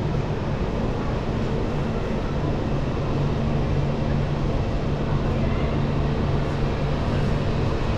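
Honda CBR1100XX Blackbird's inline-four engine running at a steady pitch while riding, under road and wind noise.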